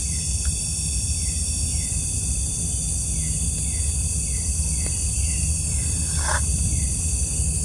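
Night-time insect chorus of crickets: a steady high-pitched trill with several steady tones and scattered short chirps, over a steady low rumble. A brief soft noise about six seconds in.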